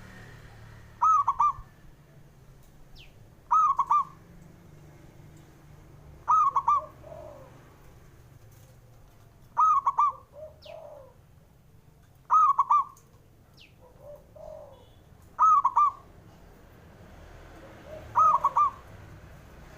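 Zebra dove (perkutut) song: a short burst of rapid, clear coos, repeated about every three seconds, seven times. A fainter, lower coo follows several of the bursts.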